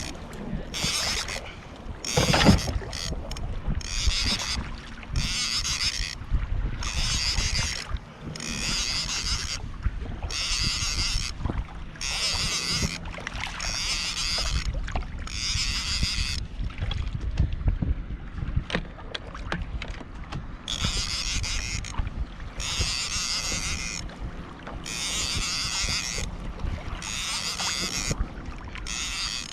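Kayak paddle strokes: a splash and swish of water with each stroke, about one a second, pausing for a few seconds partway through before resuming.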